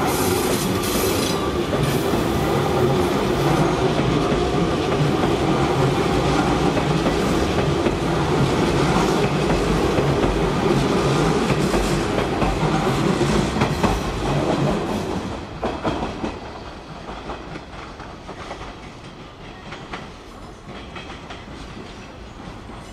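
Hanshin Railway electric train running past a station platform at close range, its wheels clattering steadily over the rail joints. After about fifteen seconds the sound drops sharply to a quieter train passing with scattered clicks.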